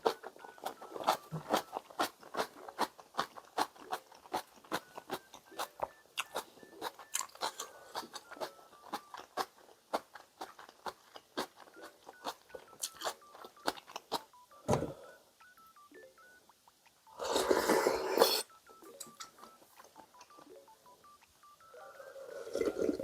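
Close-miked eating sounds: a quick run of small clicks, about three a second, over quiet background music with a simple stepped melody. About 17 seconds in there is a louder noisy burst lasting over a second.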